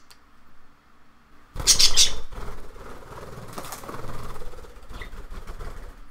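Pet bird moving about: a short, loud burst of rustling about a second and a half in, then softer rustling.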